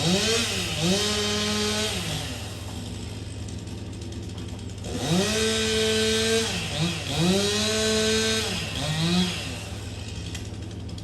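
Chainsaw revved up from idle and let back down several times, each rev held about a second: two quick revs near the start, then two more and a short blip from about five seconds in, with the engine idling between them.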